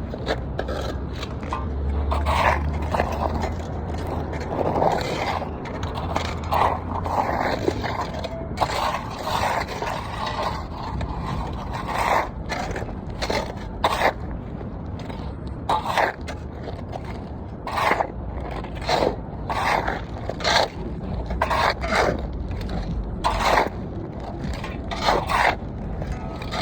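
Repeated scraping strokes, roughly one a second, over a low hum that comes and goes.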